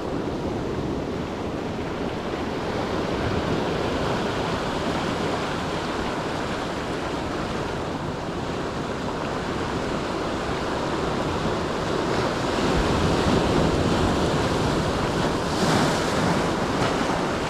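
Ocean surf washing onto a beach, a steady rush of breaking waves with wind on the microphone; the surf grows a little louder about two-thirds of the way through.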